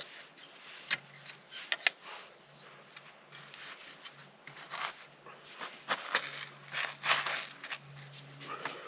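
Scattered sharp clicks, light knocks and rustling as a wooden bow drill set is handled and put into position: the spindle, bow and fireboard being set up.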